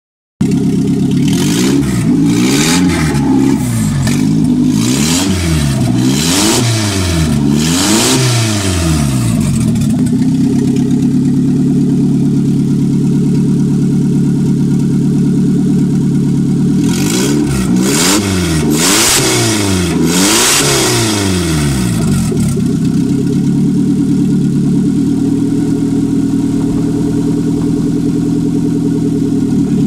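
Ford Focus ST's Zetec four-cylinder engine running with the bonnet open, idling steadily. The idle is broken by two sets of quick throttle blips, about five in the first third and three or four a little past the middle, each revving up and dropping straight back to idle.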